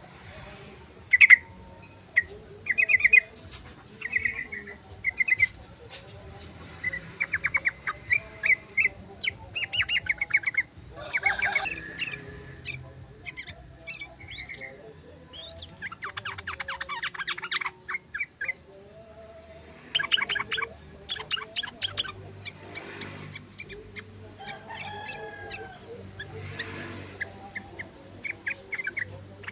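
Yellow-vented bulbul (trucukan) singing in repeated short bursts of quick, bubbly chattering notes, phrase after phrase with brief pauses between.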